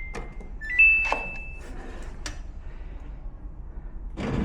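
Samsung front-load washer control panel beeping as its buttons are pressed: a few clicks and short electronic tones, one held for under a second. Near the end a steady hum starts as the machine begins to run.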